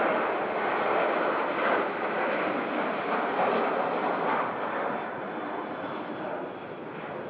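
Jet airliner engine noise, a steady rushing sound that fades over the last two seconds or so as the aircraft moves away.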